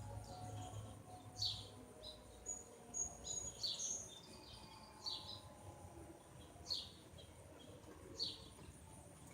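A songbird repeating short, downward-slurred chirps about every second and a half. Underneath is a faint, steady tone from a distant outdoor tornado warning siren that is slowly winding down.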